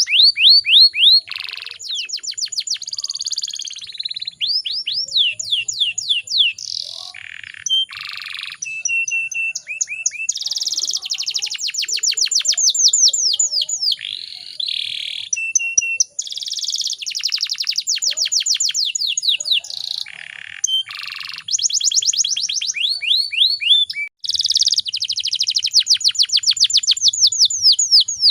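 Canary singing a long, continuous song of fast trills and rolls. The phrases change every one to three seconds, with a few short held whistled notes between them.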